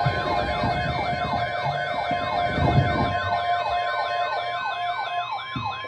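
Electronic emergency siren sounding a fast yelp: a rising-and-falling tone repeating about four times a second, over a low rumble. It cuts in suddenly just before and fades out near the end.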